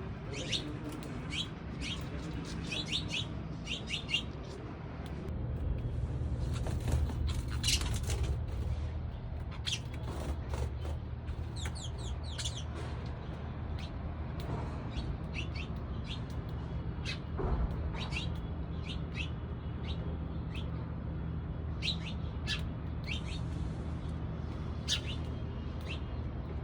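Sparrows chirping: many short chirps, irregular and overlapping, over a low steady hum.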